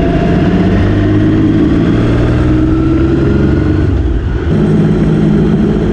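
Motorcycle engine pulling under acceleration, its note rising steadily, with a short dip about four seconds in before it settles on a steadier, lower note.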